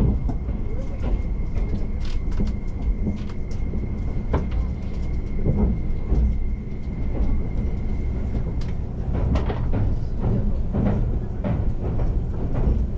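Tobu Spacia X limited express train running, heard from inside the passenger cabin: a steady low rumble with scattered clicks and knocks. A faint steady high tone stops about nine seconds in.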